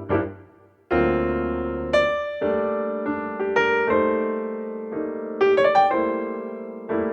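Solo piano music: gentle chords and single notes struck and left to ring and fade.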